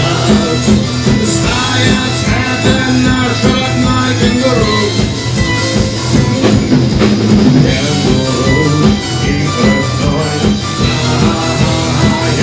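Rock band playing live: electric guitar, bass guitar and drum kit, with a steady drum beat.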